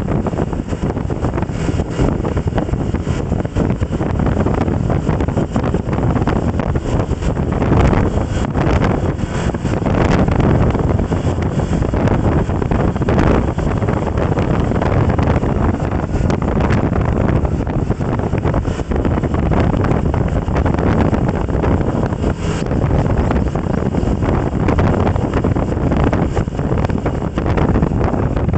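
Steady, loud wind buffeting on the microphone, a low rumbling noise with no engine tone or speech.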